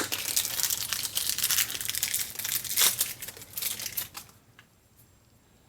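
Paper or plastic packaging crinkling and tearing as a new bearing is unwrapped, stopping about four seconds in.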